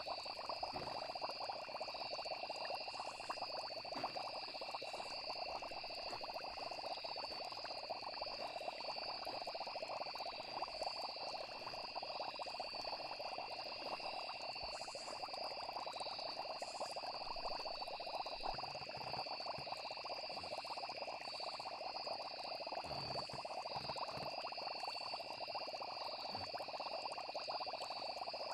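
Night nature ambience: a steady chorus of frogs and trilling insects, a dense crackling chatter under two unbroken high-pitched trills.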